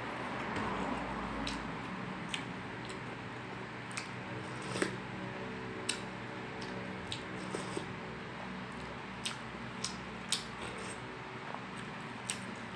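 Close-miked wet chewing and lip-smacking of a person eating rice and fried pork, with a dozen or so short sharp clicks scattered through, over a faint steady hum.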